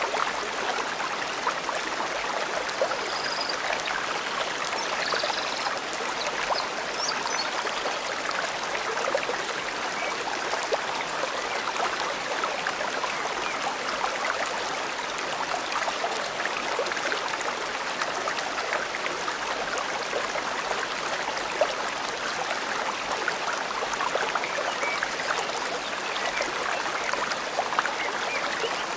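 Forest stream flowing steadily, a constant rush of water full of small splashes and trickles. A few faint high bird chirps come through about three to seven seconds in.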